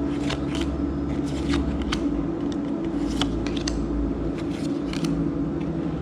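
Trading cards being handled and sorted into piles: light, irregular card snaps and slides, over a steady background hum.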